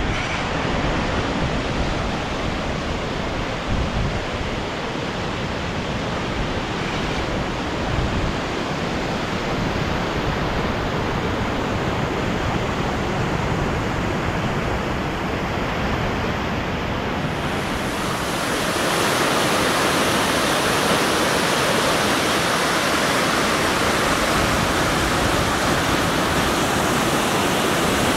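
Fast water of the Maligne River rushing through the canyon: a steady rush that grows louder and brighter about two-thirds of the way through.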